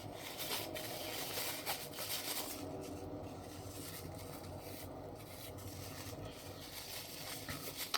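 Irregular rubbing and scraping on a wooden block of a Jacob's ladder toy, as glued fabric strips are worked onto it.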